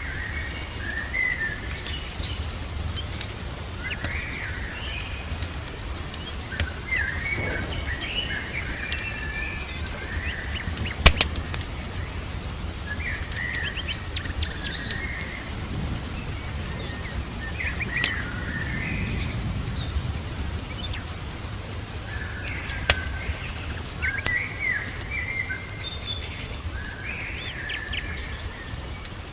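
Songbirds chirping in short repeated phrases over a steady low rumble and hiss, with scattered sharp crackles and pops from a wood fire; the loudest pop comes about eleven seconds in and another near twenty-three seconds.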